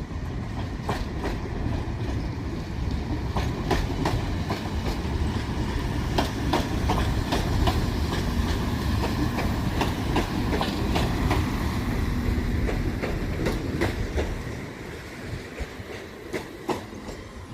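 Transport for Wales Class 196 diesel multiple unit rolling in, a steady low rumble with its wheels clicking over rail joints. The sound drops away sharply about fourteen seconds in.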